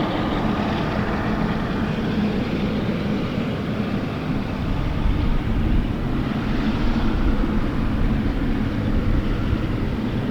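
Jet aircraft engines running, a steady drone with a low hum underneath.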